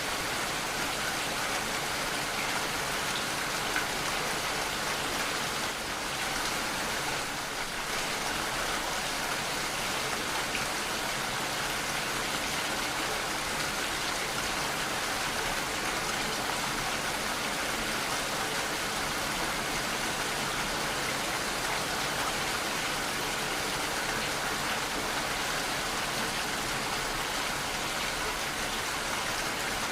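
Steady rainfall, an even hiss of drops without pauses or thunder.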